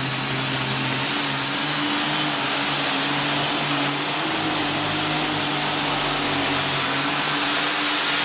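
Turbocharged alcohol-burning super stock pulling-tractor engine running flat out during a pull, loud and steady in pitch. A high turbo whistle rises over the first two seconds and then holds.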